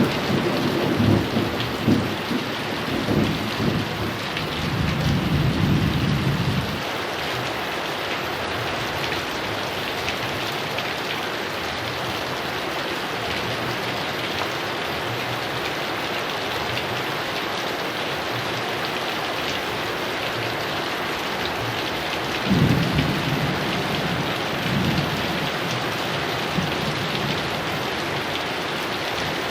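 Heavy rain falling steadily, with a roll of thunder rumbling at the start that dies away about seven seconds in, and a second rumble of thunder starting about three quarters of the way through.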